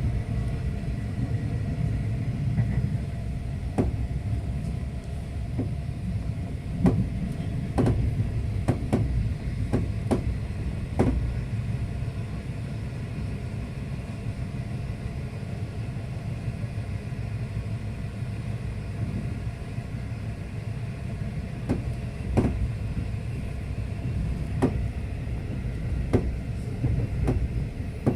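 V/Line passenger train running: a steady low rumble with scattered sharp clicks and knocks at irregular intervals.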